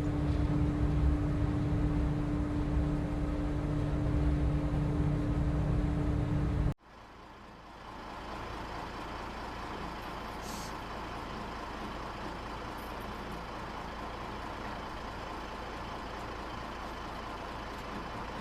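Pilot boat's engine running with a steady low drone and a held hum, cutting off abruptly about seven seconds in. After that comes a quieter, steady rumble and hiss with a faint high tone.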